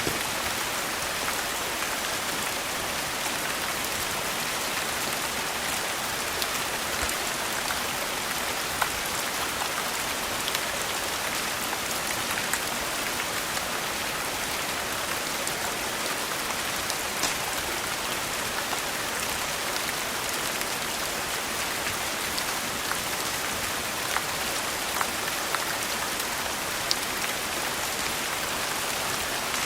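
Steady rain falling on a surface. Sharp crackles and pops from a wood fire are scattered through it every second or two.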